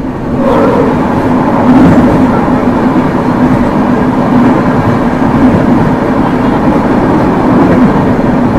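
Passenger train running, heard from inside the coach: a steady loud rumble of wheels on the track with a low hum. It grows louder about half a second in.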